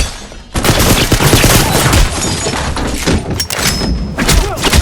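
Sustained rapid gunfire, a dense fusillade of shots starting about half a second in and running on without a break, laid in as added sound effects.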